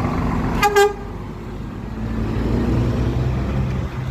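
A truck horn gives a short toot, in two quick pulses, about half a second in. Under it runs the steady low rumble of a heavy vehicle's engine, which swells from about two seconds in.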